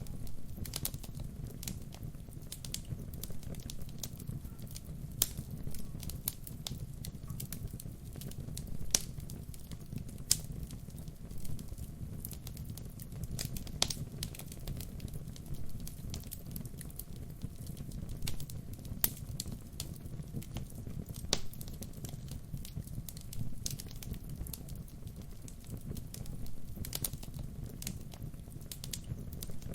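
Wood fire burning: a steady low rumble of flames with irregular sharp crackles and pops from the burning logs, a few of them much louder.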